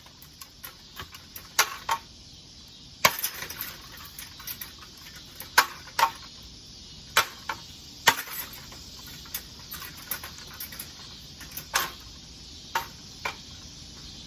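Irregular sharp knocks and clatter, a dozen or so hits a second or more apart, from a ceiling fan being beaten and broken apart.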